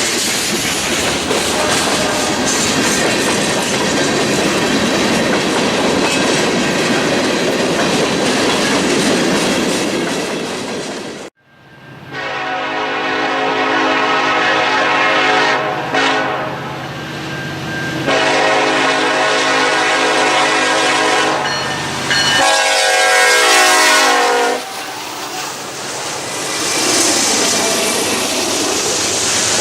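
A freight train rolling past with a steady rumble of wheels on rail. After a break, a diesel locomotive sounds its multi-chime air horn in a series of long blasts over its engine, and then its train rolls by.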